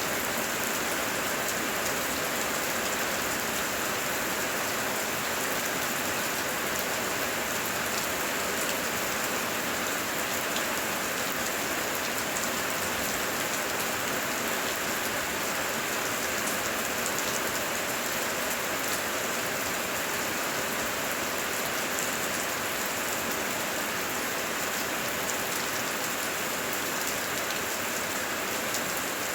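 Heavy rain falling steadily: a dense, even hiss of rain with separate drop hits scattered through it. There is no thunder in this stretch.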